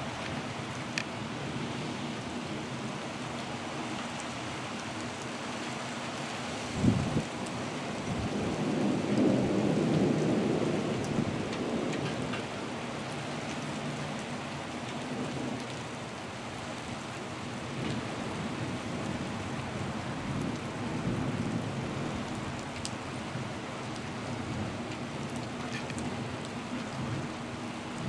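Thunderstorm: a steady rush of wind and rain, with a sharp thump about seven seconds in followed by a rumble of thunder that swells and fades over the next few seconds.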